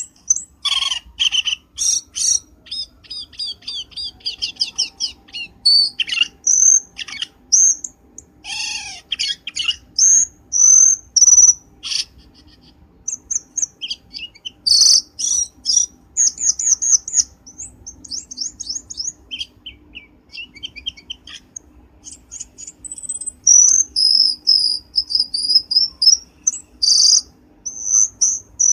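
Cucak keling bird calling, as a bird-lure recording: a busy, continuous run of sharp chirps, quick repeated note series and trills.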